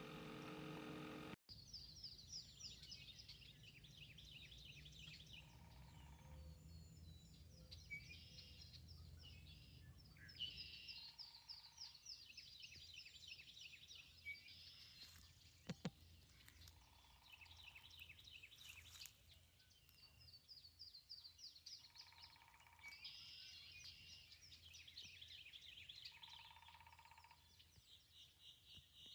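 Faint birdsong: repeated high, rapidly pulsing trills, with short lower calls every few seconds and a single sharp click about halfway through.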